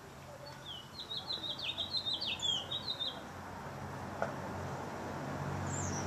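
A songbird singing one fast phrase of quick, sliding high notes lasting about two and a half seconds, followed near the end by a single short high call.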